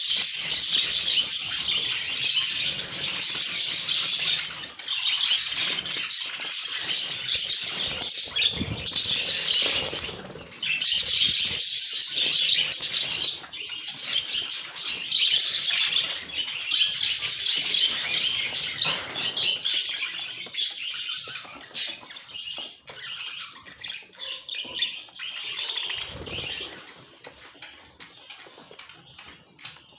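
Budgerigars chattering and chirping busily, with bursts of wing flapping. The sound grows quieter over the last ten seconds or so.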